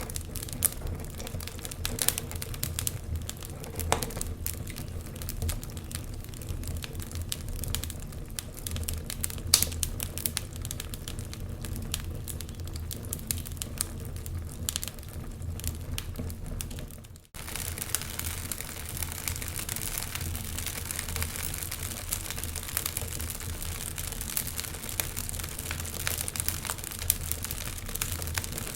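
Wood fire crackling, with frequent sharp pops and ticks over a steady low rumble and hiss. The sound drops out for a moment about seventeen seconds in, then comes back with more hiss.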